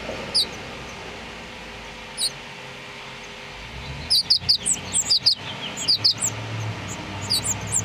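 House finches chirping: scattered single high chirps, then a quick run of chirps about four seconds in, with more near the end. A low hum runs underneath.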